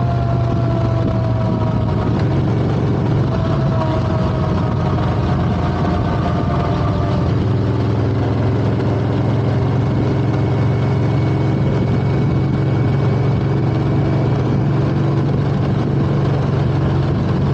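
1996 Yamaha V-Max 1200's V4 engine running through its stock exhaust while the bike is ridden, a steady deep exhaust note. A higher whine eases slightly down in pitch over the first seven seconds, then the note holds steady.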